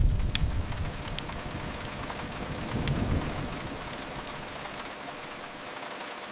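Steady rain on a window over a low rumble that is strongest at the start, fades, and swells again about three seconds in. A few sharp crackles from a fireplace come in the first three seconds.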